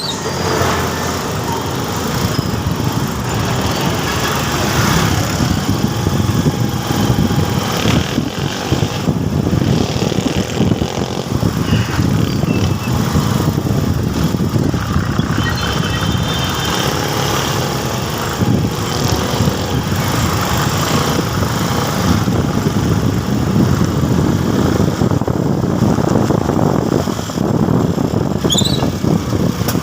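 Motorcycle running steadily while being ridden, mixed with rushing wind noise on the microphone.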